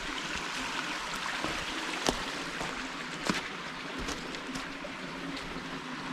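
Steady rushing of flowing water, with a few sharp clicks over it, the loudest about two seconds and about three seconds in.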